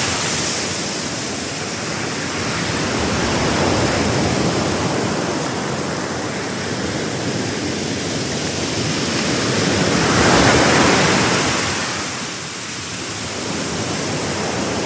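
Sea waves breaking and washing on a shore, a continuous rush that swells and ebbs slowly, with one louder wave about ten seconds in.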